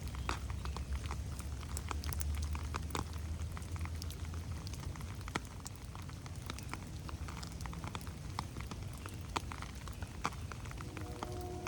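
Rain falling in a forest: irregular drops pattering and ticking on leaves and the ground over a steady hiss, with a low rumble underneath. Near the end, a distant train horn starts sounding a steady chord of several notes.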